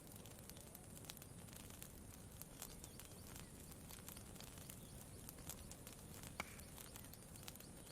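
Campfire crackling faintly, with scattered small pops and one sharper pop about six and a half seconds in, over a low steady background hiss.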